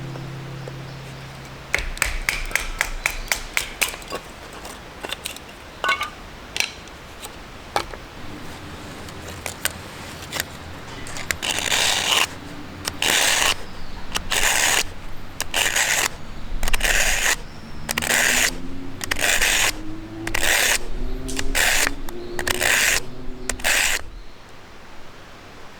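A run of quick sharp clicks, then scattered clicks, then a long series of even, noisy scraping strokes about one a second that stop near the end.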